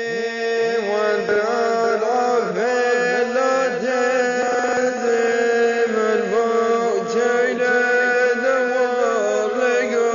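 Chanted vocal music: an ornamented melody that glides and dips over a steady held drone, running without a break.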